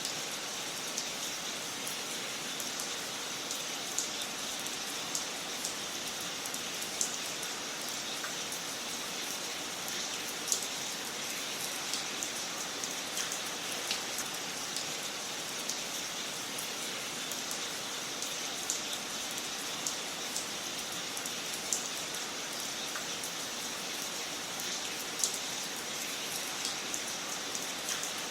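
Wood fire crackling in a fireplace: a steady hiss broken by frequent, irregular sharp pops and snaps.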